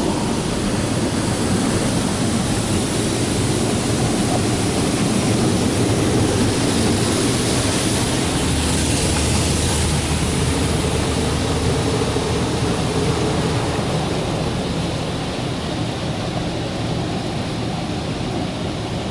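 Water spray from an E-Fusion automatic car wash's rinse pass drumming on the car body, heard from inside the cabin as a steady hiss and rush that swells briefly about halfway through.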